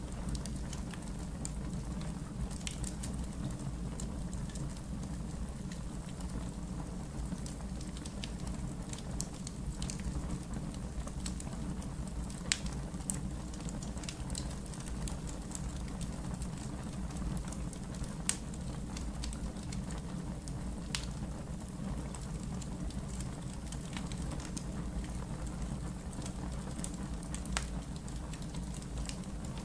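Wood fire burning in a fireplace: a steady low rumble of flames with irregular sharp crackles and pops from the logs, a few louder pops coming around the middle.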